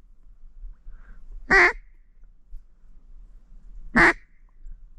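Duck quacks: single loud, short quacks repeated evenly, twice, about two and a half seconds apart.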